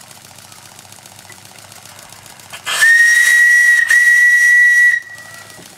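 Small model steam engine running with a faint, fast, even beat, then a steam whistle on the boiler sounds a loud high steady note about three seconds in. A very brief break about a second later splits it into two blasts, and it stops about two seconds after starting.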